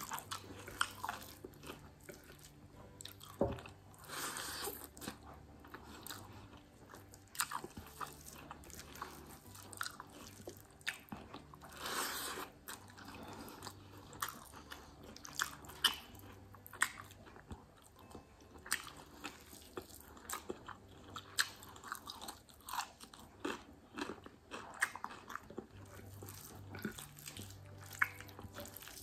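Close-up mouth sounds of a person eating rice and curry by hand: steady chewing and crunching, with many short irregular clicks. There are a couple of longer, louder crunching stretches about four and twelve seconds in.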